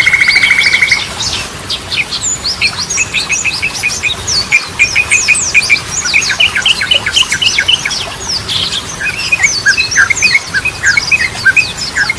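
Sooty-headed bulbul (trucukan) song: a buzzing trill breaks off about a second in, then a rapid, busy stream of short chirps and quick downward-sweeping whistled notes.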